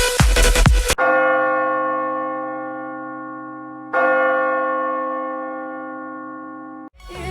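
A large bell struck twice, about three seconds apart, each strike ringing and slowly fading; the second is cut off abruptly. Electronic dance music plays for about the first second, and another song starts right at the end.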